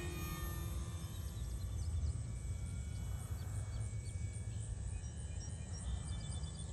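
Outdoor field ambience: a steady low rumble with faint bird chirps. The model airplane's electric motor fades away within the first second.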